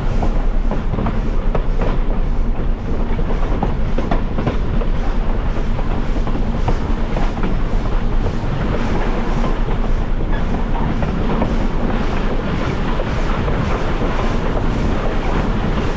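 A train rolling along the track: a steady rumble with the clickety-clack of wheels passing over rail joints.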